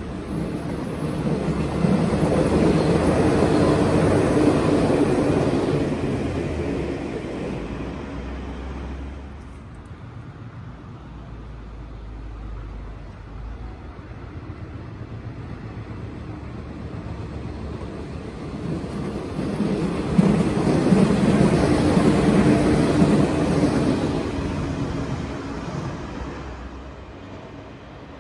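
JR West 115 series electric train running past, its wheel-and-rail and running noise swelling up and fading away. A second pass, just as loud, swells and fades about twenty seconds in.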